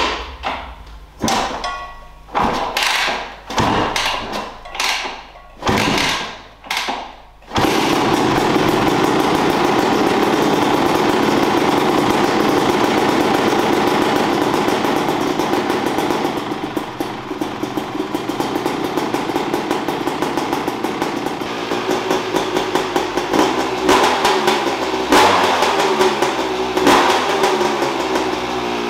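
A series of short bursts about once a second, then a Yamaha YZ250X's two-stroke single-cylinder engine catches about seven seconds in and runs steadily with a fast firing crackle. The revs rise and fall in a few throttle blips near the end.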